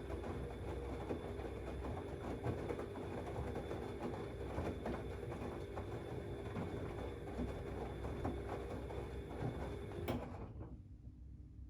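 Siemens Extraklasse XLS 140 A front-loading washing machine tumbling its wash load. The drum motor gives a steady whine under rustling and small knocks from the load, then stops abruptly about ten seconds in, leaving a low hum: the drum's pause between turns.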